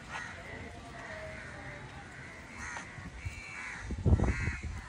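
Birds calling, about half a dozen short calls spread over a few seconds. A loud low thump or rumble comes about four seconds in.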